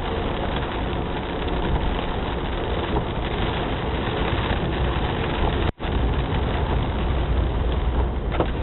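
Steady, heavy rain noise with a strong low rumble underneath; the sound cuts out for an instant a little before six seconds in.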